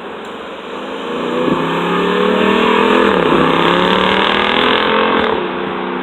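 Dodge Durango SRT's V8 accelerating hard from about a second in, its pitch climbing, dropping at a gear change about three seconds in and climbing again, then the throttle lifting off sharply near the end and the engine settling to a lower steady note.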